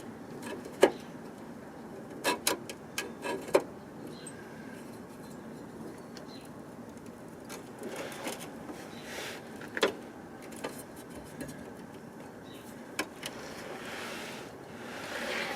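Scattered metallic clicks and knocks from a freshly cut steel repair piece being handled and test-fitted against a vehicle chassis. A rush of noise swells near the end.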